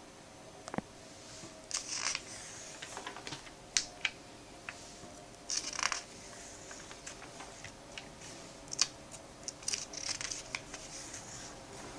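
A comic book being handled during unboxing: intermittent rustles of paper and plastic with small clicks and taps. There are short rustling bursts about two, six and ten seconds in.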